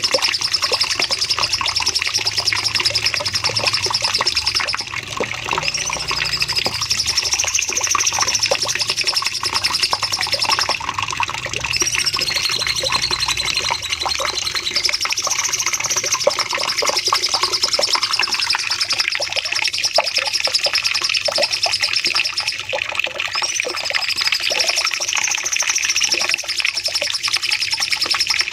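Cucak cungkok songbird singing a long, unbroken run of rapid high-pitched trilled notes ("nembak panjang"), broken every few seconds by short swooping notes.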